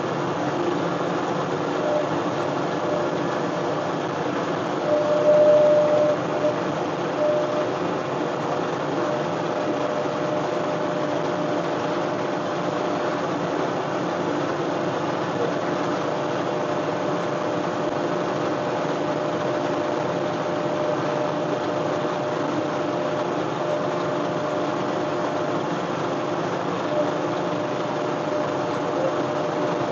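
John Deere 1025R compact tractor's three-cylinder diesel running steadily, driving a 54-inch front snowblower, with a steady tone over the engine noise. It grows briefly louder about five seconds in.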